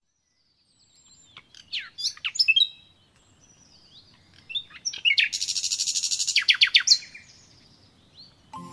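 Small songbirds chirping and singing: quick high chirps and sweeping notes, then a fast, buzzy trill of rapid pulses in the middle, followed by a few more chirps.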